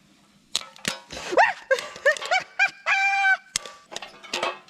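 A dog whining: a string of short rising cries, then one longer held whine. A few sharp pops of popcorn kernels bursting on a covered griddle come before and after.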